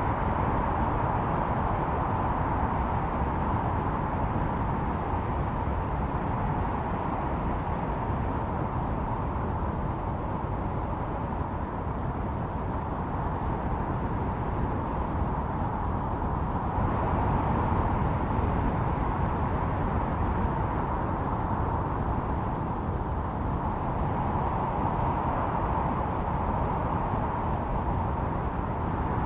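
Snowstorm wind howling steadily, a whistling band over a low rumble, swelling slightly about two-thirds of the way through and again near the end.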